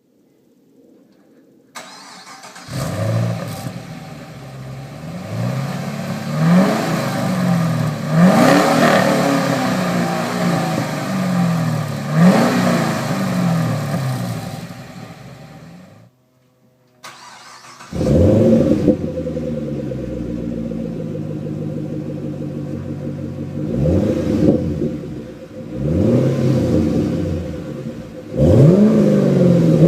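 Exhaust of a 2012 Camaro SS's 6.2-litre V8 through a Flowmaster American Thunder axle-back. The engine comes in about two seconds in and is revved in short blips, three or so. It stops briefly past the middle, then comes back loud with several more revs.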